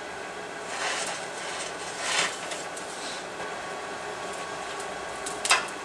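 Blacksmith's forge running with a steady rushing hiss while the steel heats, with a few brief swells of noise and a sharp click near the end.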